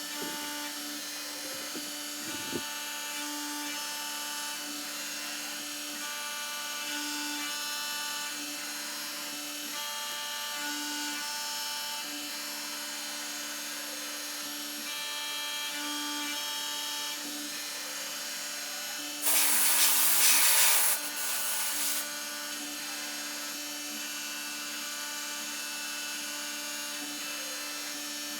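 CNC milling machine running a chamfering pass around brass divot repair tools: a steady motor hum with higher whining tones that switch on and off as the axes move. About 19 seconds in a loud hiss lasts about two seconds, with a shorter one just after.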